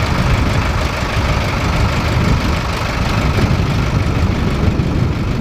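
Sonalika 750 DI RX tractor's diesel engine running steadily, a loud, even rumble.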